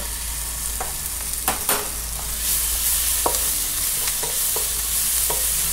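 Garlic, ginger and scallions sizzling in hot oil in a wok, with a steady frying hiss. Stirring utensils tap and scrape against the pan in short sharp clicks, roughly once a second.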